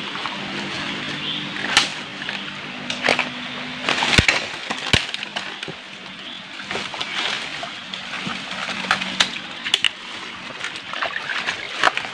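Sloshing and splashing footsteps wading through a shallow, stony ditch stream, with several sharp knocks scattered through it.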